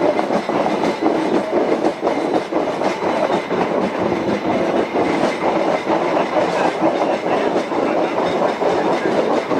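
Narrow-gauge train cars rolling along the track: a steady rumble with irregular clicking and clattering of the wheels over the rail joints.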